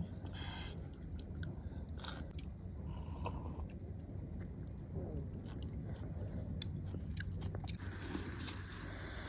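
Close-up mouth sounds of a person chewing and biting food, with small wet clicks and crunches. Near the end, rustling as a backpack is opened.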